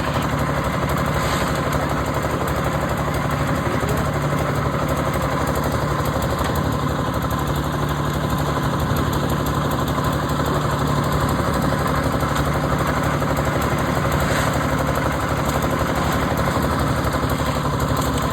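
Engine of a concrete mixing machine running steadily, a continuous, even drone with a strong low hum and no let-up.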